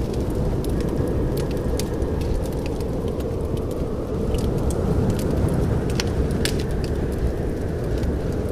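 Wood fire in a fireplace crackling: scattered sharp pops, about one a second, over a steady low rumble.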